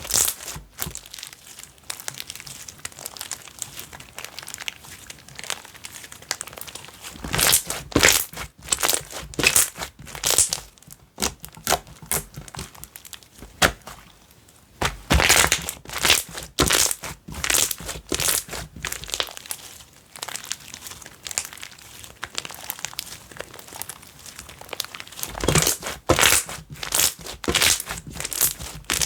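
Slime being squished, stretched and poked by hand, giving irregular crackling, popping and crinkling sounds that come in clusters with quieter pauses between.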